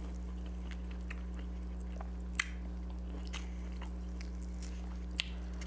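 A person chewing food with the mouth closed: soft mouth clicks and smacks, with two sharper clicks about two and a half and five seconds in. A steady low electrical hum runs underneath.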